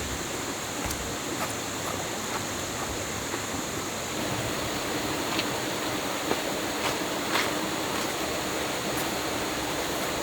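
Flowing stream water, a steady rushing hiss, with a few light knocks scattered through it.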